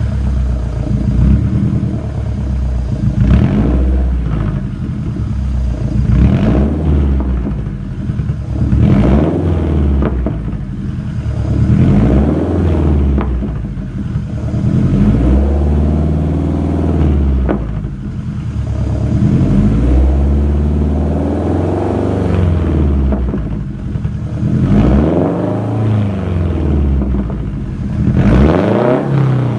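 Turbocharged Subaru BRZ flat-four boxer engine with a straight-piped exhaust being free-revved. It blips up and back down, between about 1,500 and 4,000 rpm, roughly every two seconds.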